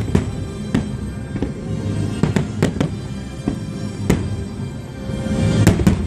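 Fireworks bursting: many sharp bangs in quick, irregular succession, with a dense cluster of bangs near the end, over music playing.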